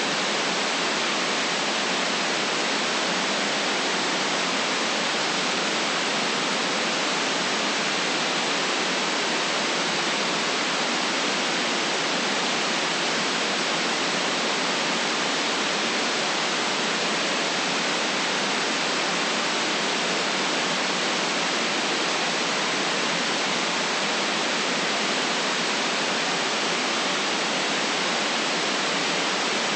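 Steady artificial white noise: an even, unbroken hiss that never changes in level or character.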